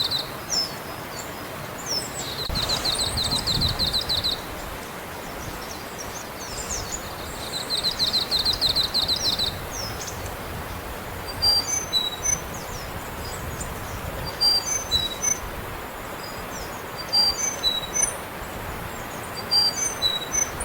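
Wild songbirds singing outdoors. First comes three fast, buzzy trills of about two seconds each. From about halfway through, short high chirps follow in small repeated clusters.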